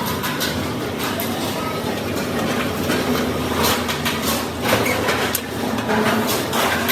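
Factory floor noise: machinery running with a steady low hum and scattered short metal clanks and knocks.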